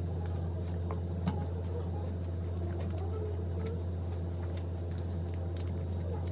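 A person chewing food with soft wet mouth sounds and small clicks, over a steady low hum.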